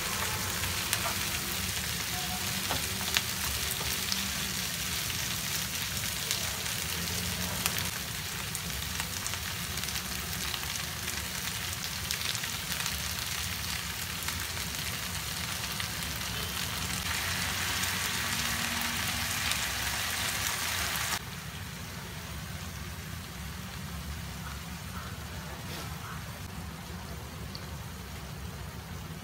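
Chicken pieces and sliced onion sizzling in hot oil in a non-stick frying pan, with a few clicks of a spatula stirring at first. The sizzle drops suddenly to a quieter level about three-quarters of the way through.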